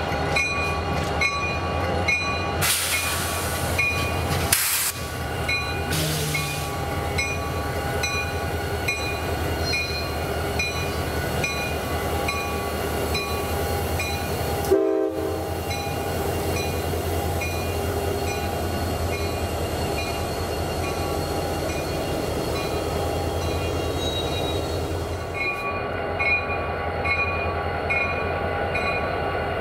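Freight train rolling by behind CSX EMD diesel locomotives: a steady low engine rumble and the noise of wheels on rail. A short hiss comes about three seconds in, and there is a sudden break near the middle.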